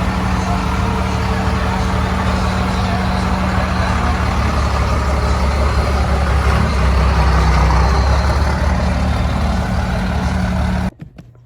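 A motor vehicle's engine running, a steady low drone under loud road and traffic noise, growing a little stronger past the middle. It cuts off abruptly near the end.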